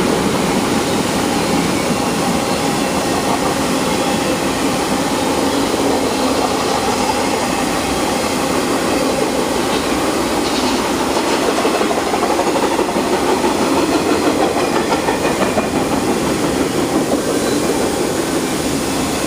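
Freight train cars rolling past: a steady rumble and rattle of steel wheels on the rails, without a break.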